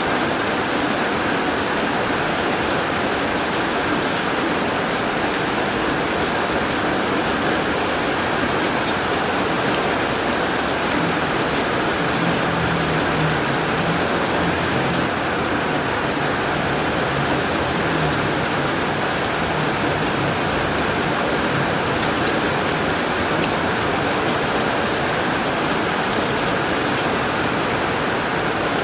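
Steady heavy rain drumming on a tin roof, with scattered sharp drop ticks, and a low rumble of distant thunder through the middle.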